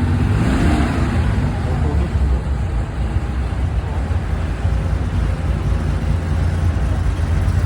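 Steady low rumble of street traffic and car engines, with faint voices of passers-by under it.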